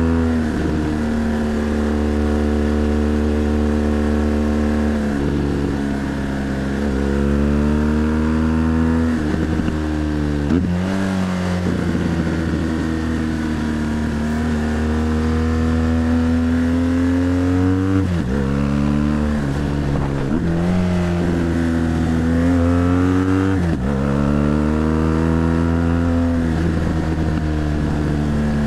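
BMW GS Adventure LC motorcycle's liquid-cooled boxer twin engine running under way. Its note climbs slowly, then drops sharply about five times before climbing again, as the throttle is eased and gears change.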